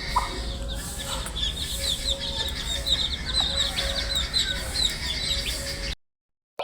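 A brood of baby chicks peeping: a dense, continuous stream of many short, high chirps from many birds at once, over a low hum. The sound cuts off abruptly to silence near the end.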